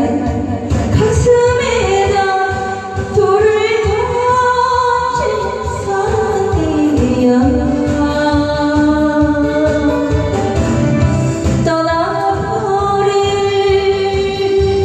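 A woman singing a Korean pop song with long, bending held notes over full band accompaniment.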